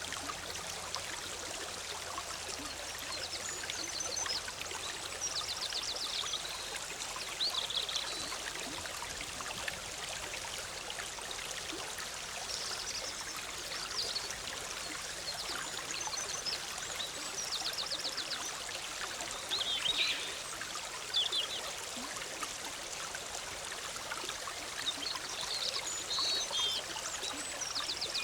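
The Big Sur River babbling steadily as a shallow forest stream. Songbirds call over it in short high chirps and rapid trills, coming in several brief clusters.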